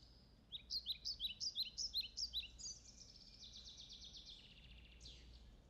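A small songbird singing: a run of quick, repeated high chirps, about four a second, then a faster trill that fades out, over a faint steady room hum.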